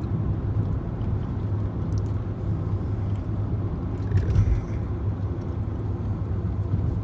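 Steady low engine and road rumble of a BMW 328i sedan cruising, heard from inside the cabin, swelling briefly about four seconds in.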